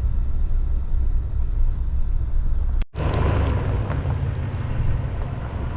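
Truck driving slowly on a gravel road: a steady low engine and road rumble with tyre hiss. About three seconds in the sound breaks off for an instant and picks up again.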